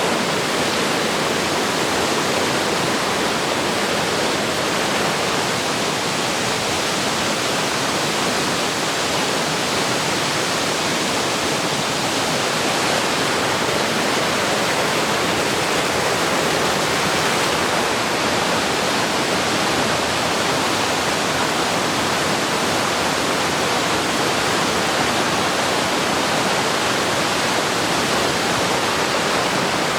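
Waterfall cascading: a loud, steady rush of falling water.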